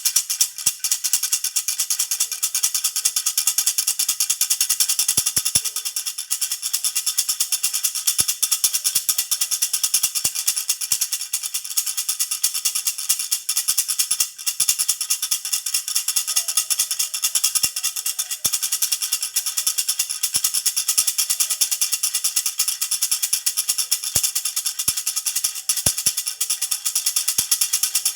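Jhunjhuna baby rattle shaken rapidly and steadily, a continuous dense jingling rattle with no pauses.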